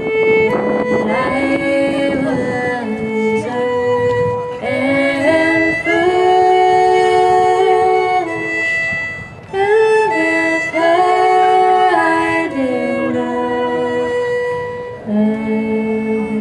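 Acoustic bluegrass band with fiddle playing a slow tune in long held notes, several parts moving together in harmony and changing every second or two.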